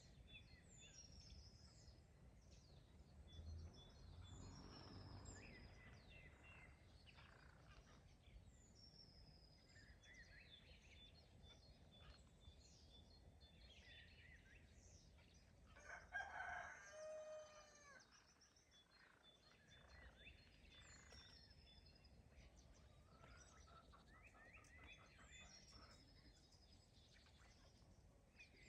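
Faint songbird chirping throughout, with a rooster crowing once about halfway through, the crow lasting a little over a second and the loudest sound. Under it all, a low, steady background hum.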